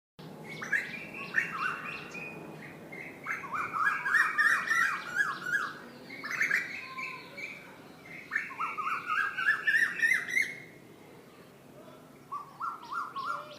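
Bird song: phrases of rapid chirps, each burst lasting a second or two, repeated about five times with short pauses between.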